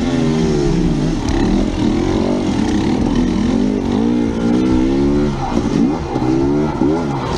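Dirt bike engine revving up and down again and again as the throttle is worked, its pitch rising and falling every second or so.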